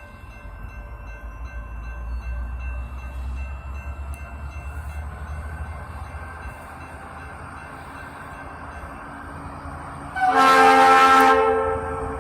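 Norfolk Southern diesel freight locomotives rumbling steadily, then one loud, short blast of the locomotive's multi-chime air horn about ten seconds in.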